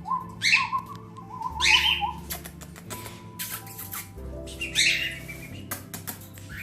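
Parrots squawking: three loud, harsh screeches about half a second, under two seconds and nearly five seconds in, with softer chirps between.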